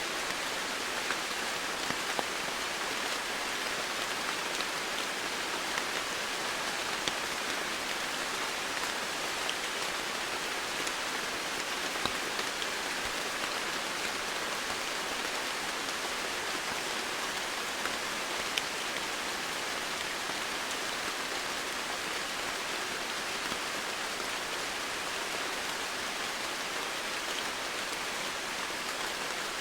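Steady rainfall, an even hiss of rain with the odd separate drop ticking out of it.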